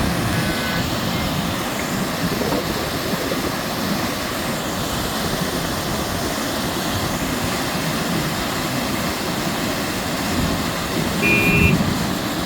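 Heavy rain falling in a steady downpour, with a short beep about eleven seconds in.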